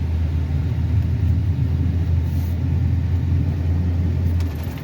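Plow truck's engine running with a steady low drone as the truck pushes snow, easing off about four and a half seconds in.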